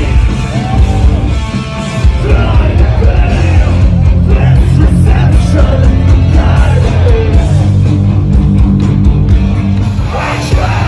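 Live heavy rock band playing loudly, with distorted guitars and sung and yelled vocals over a heavy low end.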